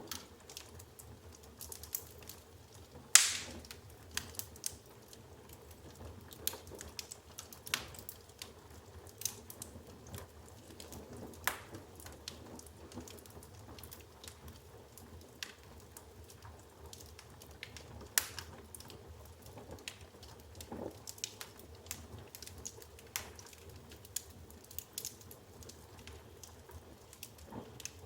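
Wood fire in a fireplace crackling, with irregular sharp pops and snaps over a soft, steady rush of flame. The loudest pops come about three seconds in and again around eighteen seconds.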